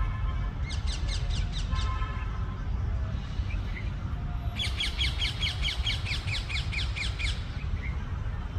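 Young parakeet screeching to beg for food, in rapid runs of short repeated calls. There is a short run about a second in and a longer, louder run through the middle.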